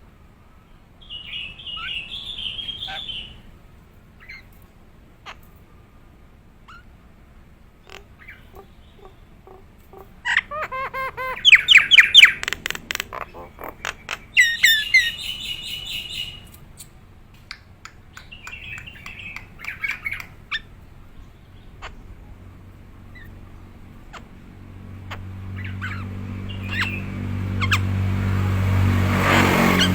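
Nias hill myna calling: a short call about a second in, then a loud run of rapid, repeated whistles and squawks from about ten to sixteen seconds, and another call near twenty seconds. A low hum swells up over the last few seconds.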